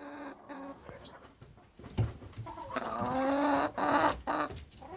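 Chickens clucking and calling, with one longer drawn-out call a little before the end.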